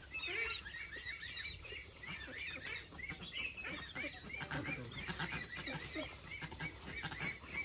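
Animal calls: a dense run of short, high chirps repeating several times a second, with lower calls mixed in.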